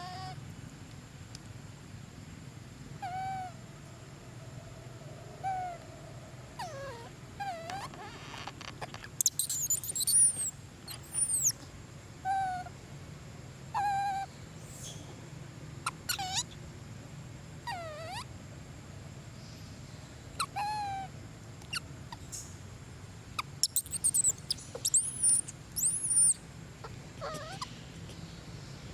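Long-tailed macaques calling: a short coo repeated about every two seconds, with two bouts of high-pitched squeals, one about ten seconds in and one near the end.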